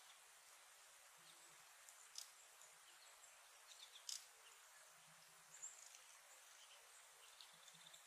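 Near silence: a faint steady hiss with a few brief, high-pitched chirps of small birds scattered through it.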